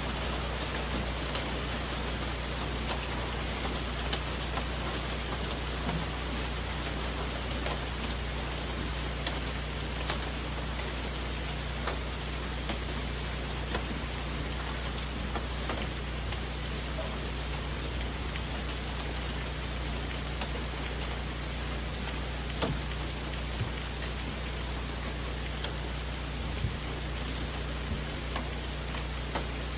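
Steady rain falling in a forest: a continuous hiss, with many separate drops tapping close by on leaves.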